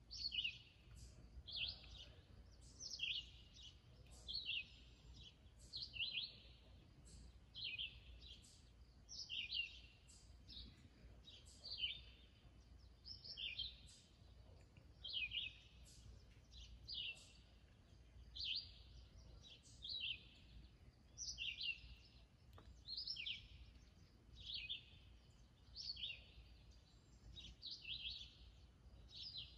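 A small songbird singing short, high-pitched chirping phrases over and over, about one every second and a half to two seconds.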